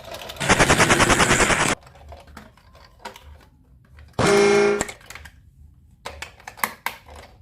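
A rapid rattle of clicks lasting just over a second, a short pitched toot about four seconds in, then scattered clicks and taps, as from a plastic toy train being handled.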